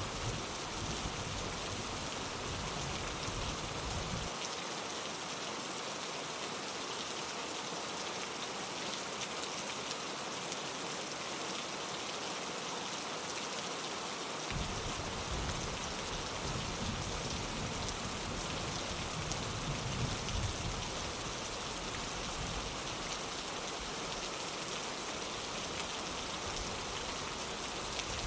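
Steady rain falling on a window, an even hiss with no pauses. Under it runs a low rumble that cuts out suddenly about four seconds in and comes back just as suddenly about ten seconds later.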